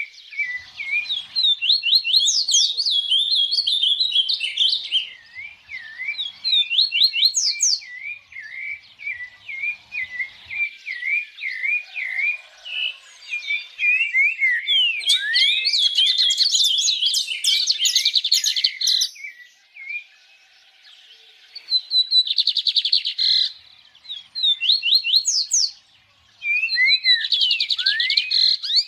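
Songbirds singing and chirping in quick runs of sweeping high notes, at times several overlapping, with two short pauses in the second half.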